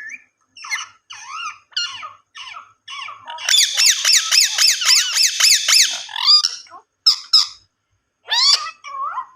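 Indian ringneck parakeet calling: short squeaky notes, then a rapid chattering run of about six quick rising-and-falling notes a second for some two and a half seconds, then a few more single squeaks.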